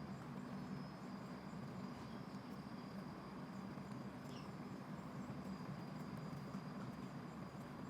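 Faint steady outdoor ambience: a low even rumble with a thin, high, continuous insect drone above it.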